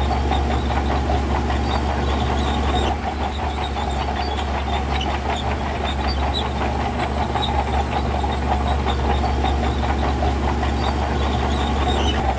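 Diesel engine of heavy earthmoving machinery running steadily under load, with a constant metallic clatter.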